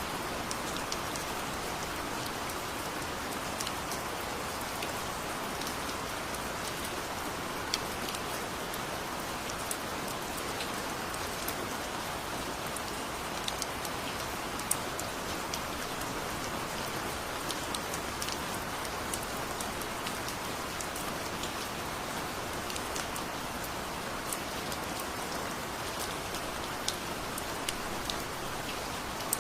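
Heavy rain falling steadily, with many sharp drops ticking through it.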